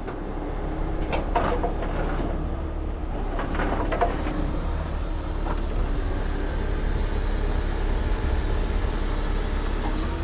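Heavy diesel truck engine idling steadily, with a few light knocks and rattles about one to four seconds in.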